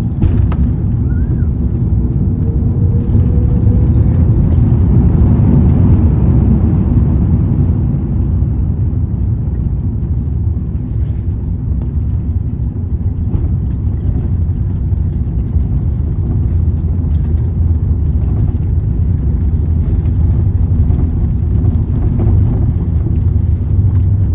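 Avianca airliner on landing, heard from the passenger cabin: a loud, steady low rumble of engines, airflow and runway that swells a few seconds in, with a faint rising whine about two seconds in.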